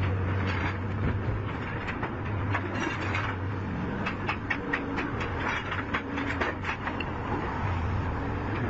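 Metal parts and hand tools clicking and tapping during truck gearbox repair work, the taps coming thick and fast in the middle stretch, over a steady low hum.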